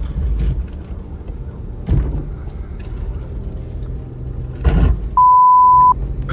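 Frozen lake ice cracking under a moving Isuzu D-Max pickup, heard inside the cab over a steady low rumble: two sharp cracks, about two seconds in and again near five seconds. A beeped-out word, a steady 1 kHz censor tone, follows briefly near the end.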